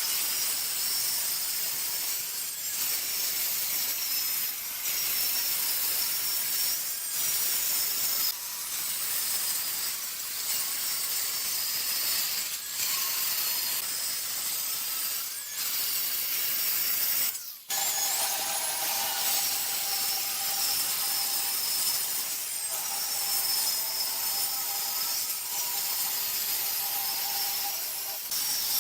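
A tool cutting wood: a steady hiss that dips slightly about every two seconds. About two-thirds of the way through it breaks off for a moment, then resumes with a steady whine added.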